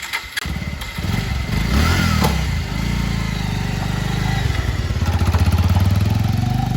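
Bajaj Pulsar 150 single-cylinder motorcycle engine running, revved up and back down about two seconds in, then running steadily and rising slightly in the last couple of seconds.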